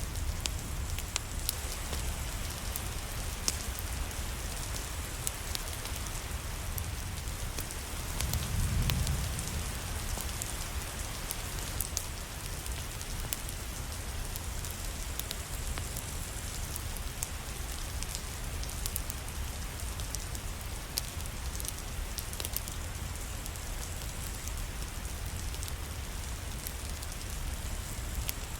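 Steady rain with a wood fire crackling and popping through it, and a low rumble underneath. The low rumble swells briefly about eight seconds in.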